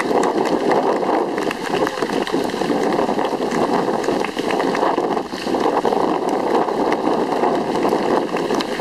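Strong wind buffeting the microphone: a loud, continuous rushing noise full of small crackles.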